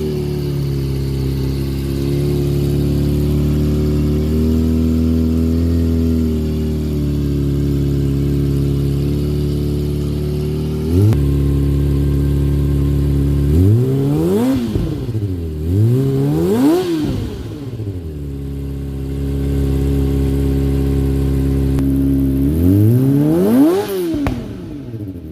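Kawasaki ZX25R's 249 cc inline-four engine, breathing through an aftermarket exhaust, idling steadily, then revved: a quick throttle blip about eleven seconds in, two revs a little later, and one more near the end, each rising and falling back to idle.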